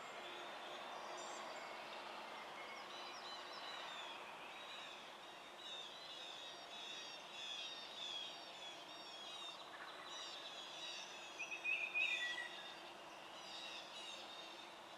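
Wild songbirds chirping and trilling in a steady chorus, with one louder, rapid stuttering call about two-thirds of the way in.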